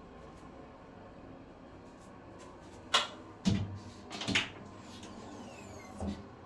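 A handful of short clicks and knocks spread over a few seconds, one of them followed closely by a low thump, against quiet room tone.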